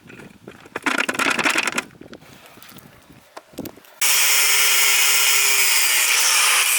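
A short rattling burst of tool noise about a second in, then a power tool starts suddenly about four seconds in and runs loud and steady, its pitch sinking slightly.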